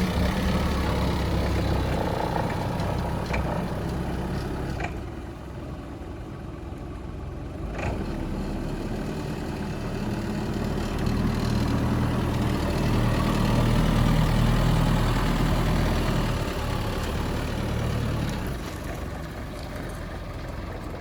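Atlet industrial truck running, its motor hum dropping back for a few seconds and then building up again, with a few sharp clicks along the way.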